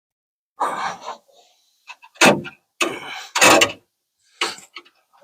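1950 Ford F1 door window being worked in its track, the glass and regulator scraping and rubbing in several separate bursts. It is an odd noise from the window mechanism whose cause is not yet found.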